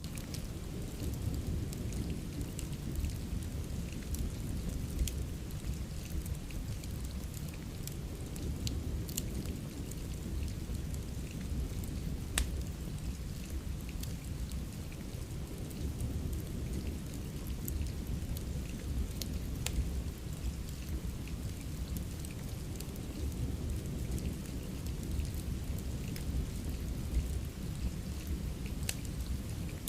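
Steady rain ambience with a heavy low rumble under it, mixed with the scattered sharp crackles and pops of a wood fire.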